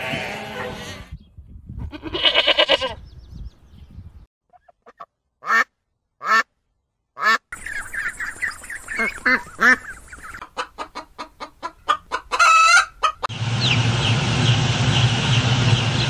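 A few separate animal calls with gaps between them, then domestic ducks quacking in a crowd, a quick run of short calls. Near the end, many chicks peep together over a steady low hum.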